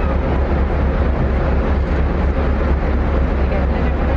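Wind buffeting the microphone: a constant, loud low rumble and rushing noise, with a faint steady hum underneath.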